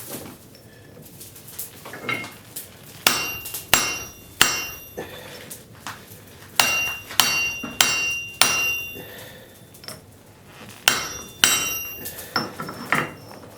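Blacksmith's hand hammer striking a hot railroad spike on an anvil: about a dozen ringing blows in short runs of three or four, with brief pauses between the runs.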